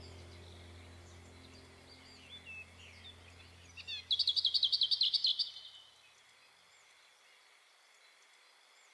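Birdsong: scattered high chirps, then about four seconds in a loud, rapid trill of evenly repeated notes lasting about a second and a half. A low held tone fades out over the first few seconds.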